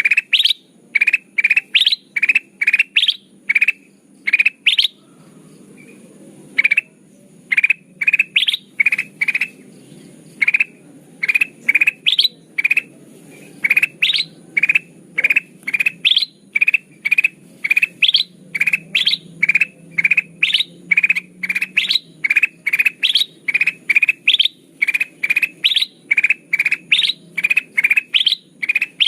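Lure recording of a kutilang emas bulbul calling: short, bright rising chirps repeated about twice a second, with a couple of brief pauses, over a faint low hum.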